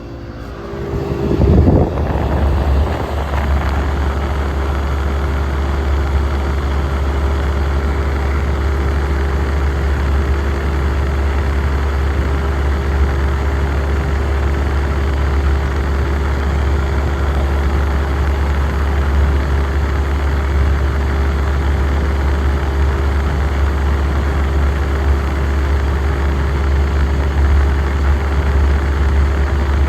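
1967 Chrysler Airtemp Imperial air conditioner coming up to speed about two seconds in, then running steadily with a low hum.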